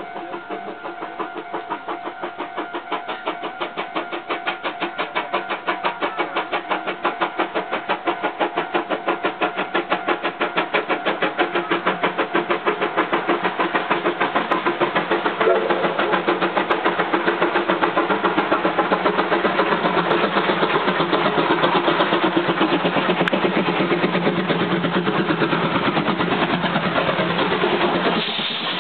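Steam locomotive working hard, its exhaust chuffing in a rapid, even beat that grows louder as it approaches, then holds steady and close.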